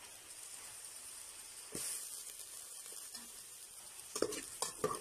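Food sizzling steadily in hot oil in an aluminium pot. The sizzle swells louder about two seconds in, and a few sharp knocks come near the end.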